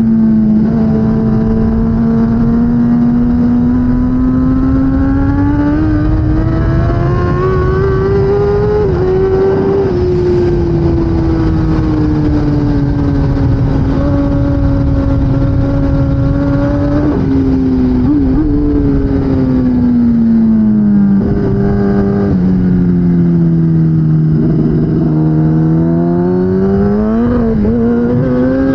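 2016 Kawasaki ZX-10R superbike's inline-four engine at racing speed, its pitch climbing through the revs, dropping sharply at several gear changes and sweeping down and back up through slower corners, over a steady rush of wind.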